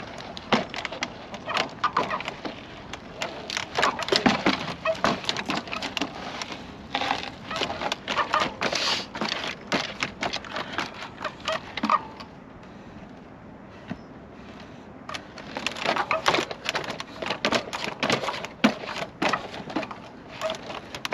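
Electric trials bike being hopped and landed on obstacles: irregular knocks, clacks and tyre scuffs, with a brief quieter lull a little past the middle.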